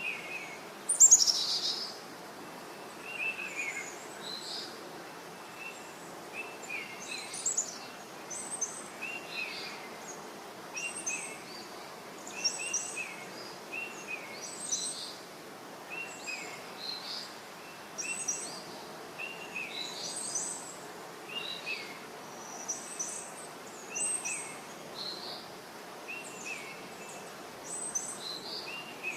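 Birds chirping, short high calls repeating about once a second over a steady background hiss, with one louder descending call about a second in.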